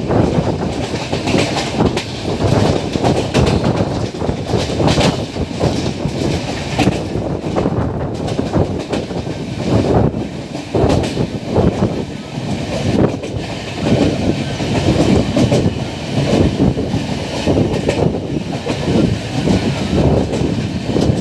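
The JP Suvidha Express running at speed, heard from an open coach window: a steady rumble of the coach on the track with repeated clickety-clack of wheels over rail joints.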